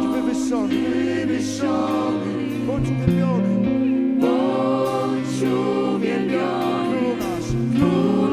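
Church worship band and singers performing a song: several voices sing sliding, held melody lines over sustained low bass notes that change a few times.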